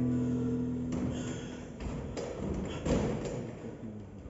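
The band's held chord dies away in the first second or so. It is followed by scattered dull thumps and knocks from the stage, the loudest about three seconds in.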